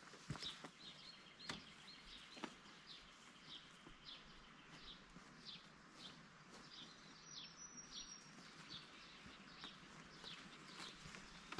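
Faint bird calling: a short, descending chirp repeated about twice a second, with a few faint clicks in the first few seconds.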